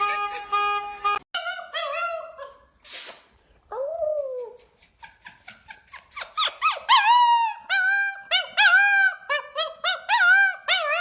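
A dog's high whining cries, a few drawn-out ones at first and then a quick run of short rising-and-falling yelps from about six seconds in. A steady horn-like tone sounds at the start and cuts off about a second in.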